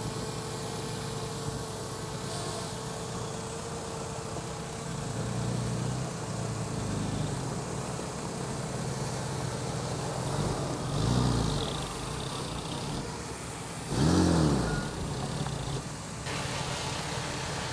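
Heavy earthmoving machine's engine running steadily, revving up and back down twice in the second half, the later rev the loudest.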